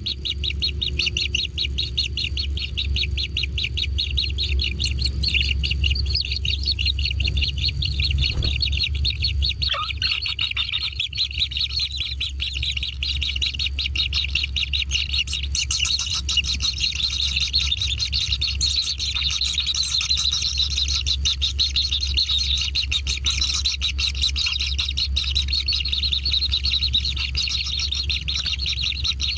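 Kingfisher nestlings giving rapid, continuous begging chirps, over a steady low rumble.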